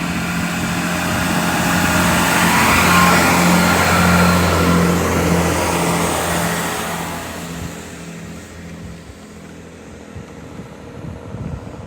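Class 165 diesel multiple unit pulling away from the platform, its diesel engines working hard as it accelerates. The engine note swells for the first few seconds, then fades away as the train leaves.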